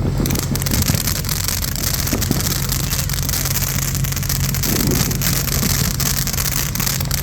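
Ground fountain firework spraying sparks: a steady loud hiss with fine crackling that starts suddenly just after the start and runs for about eight seconds.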